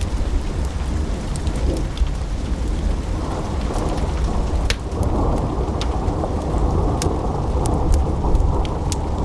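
Wood fire burning in a fireplace: a steady low rumble of flames with sharp crackles and pops of the logs scattered through, a few every couple of seconds.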